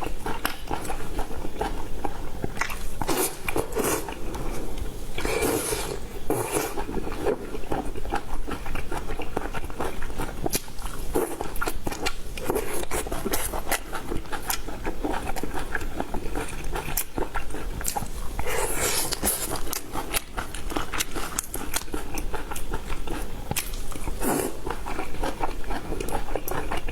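Crunchy eating: repeated crisp bites and chewing crunches with clicks, a few louder crunching bites among them.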